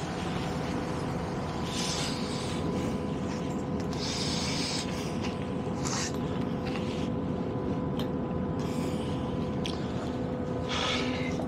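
Steady rumble inside a train carriage, with a constant hum and a few short hissing bursts.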